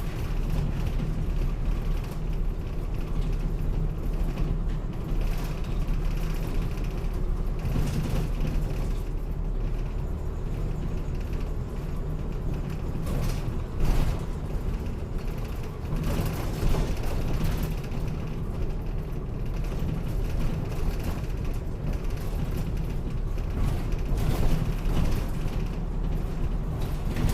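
Route bus under way, heard from inside the passenger cabin: steady low engine and road rumble, with creaking and rattling from the bus body and fittings and a couple of sharp knocks partway through.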